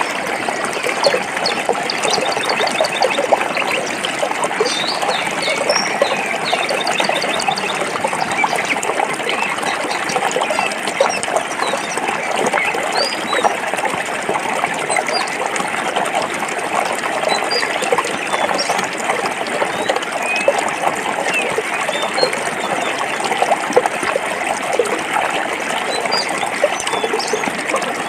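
Stream water running and bubbling over rocks, a steady rush with constant small splashes, with scattered bird chirps high above it.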